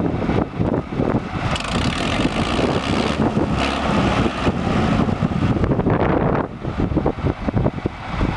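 Case IH 885 tractor engine running steadily, with wind gusting irregularly across the microphone.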